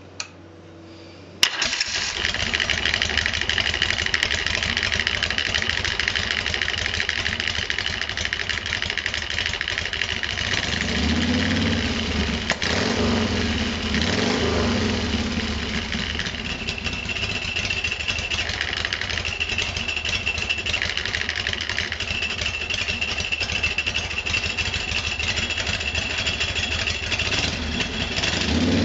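Motorcycle V-twin engine with an Ultima 2-inch open belt primary starts suddenly about a second and a half in, then runs steadily with a high whine over the engine note. The engine note rises a few times about halfway through.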